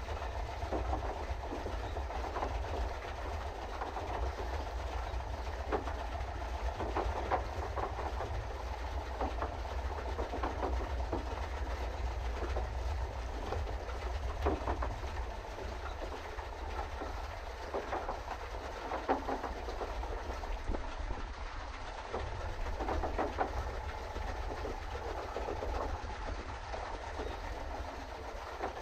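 A pedal boat's paddle-wheel drive churning steadily, with irregular clatters and knocks from the mechanism over a constant low rumble.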